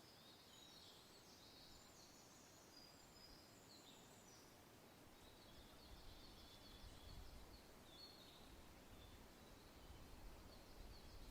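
Faint birdsong: many short chirps and trills from several birds over a soft hiss. From about halfway in, a low wind rumble comes in and gusts.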